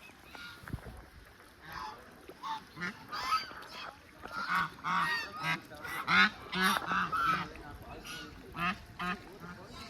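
A flock of waterfowl honking: many short, nasal calls in quick succession, densest and loudest in the middle of the stretch, then thinning out.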